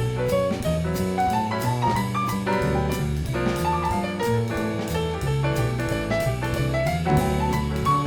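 Instrumental jazz: piano over a walking bass line and a drum kit keeping time on the cymbals.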